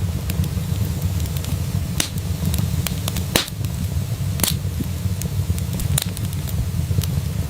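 Wood fire crackling in a fireplace: a steady low rumble of burning with scattered sharp pops and snaps, the two loudest a little after the middle.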